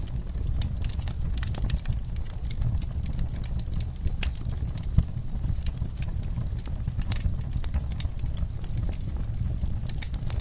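Wood fire in a fireplace crackling, with irregular sharp snaps and one louder pop about five seconds in, over a steady low rumble of rain.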